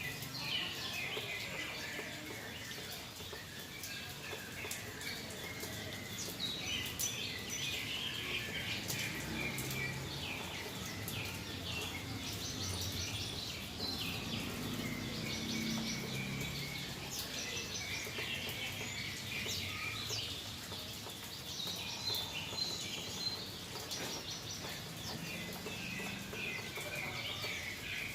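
Yellow-vented bulbul chirping and twittering in many quick, short notes, with scattered faint ticks.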